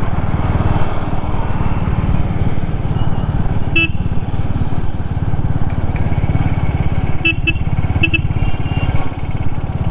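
Royal Enfield Classic 350's single-cylinder engine running steadily under way, a fast even thudding beat. A short horn beep sounds about four seconds in, and a few quick beeps come around seven to eight seconds in.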